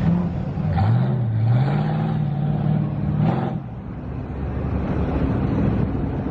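Car engine revving up, its pitch rising about a second in and holding before dropping off a little after halfway, followed by a steady low engine rumble.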